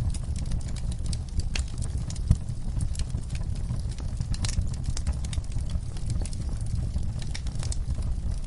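Wood fire in a fireplace crackling over a low, steady rumble, with irregular sharp pops and one louder pop about two seconds in.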